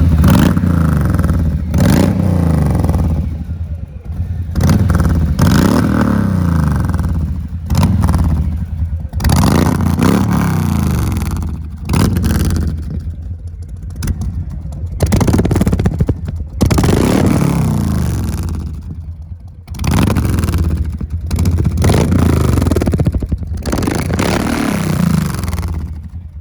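Harley-Davidson Softail's Milwaukee-Eight V-twin engine, breathing through a two-step full aftermarket exhaust, revved again and again from idle. Every two to three seconds the throttle is blipped, and the pitch climbs and drops back to a loping idle.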